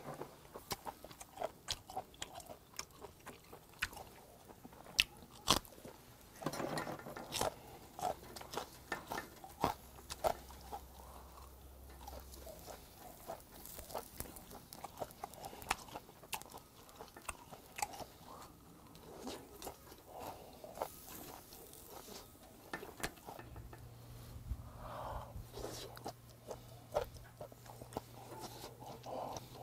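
A person chewing grilled beef offal up close, with wet mouth sounds and small crunchy clicks throughout. Now and then metal tongs click against the wire grill rack.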